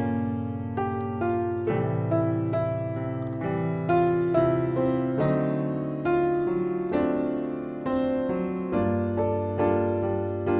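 Gentle background piano music: a slow melody of struck notes over held bass notes.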